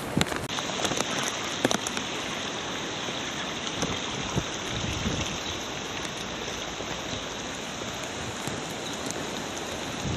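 Steady rain from a Category 1 hurricane falling outdoors, a constant hiss with scattered sharp drop hits.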